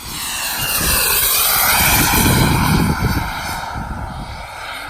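Model jet's turbine whining as the plane makes a fast pass: the sound swells over about two seconds and then fades, its pitch dipping and then climbing again.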